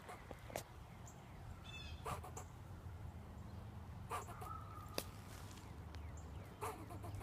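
Squirrel giving short, sharp alarm barks, one every second or two.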